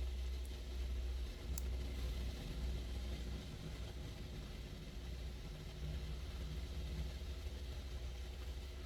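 Low steady hum with a faint even hiss, and a single light click about one and a half seconds in.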